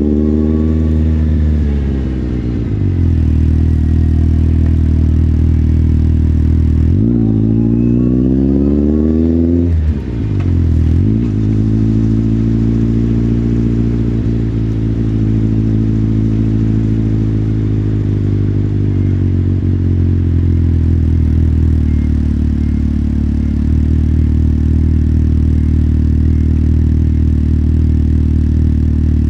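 Motorcycle engine heard from the rider's position: it winds down over the first few seconds, revs up about seven seconds in, drops off sharply near ten seconds, then runs at a steady pitch for the rest.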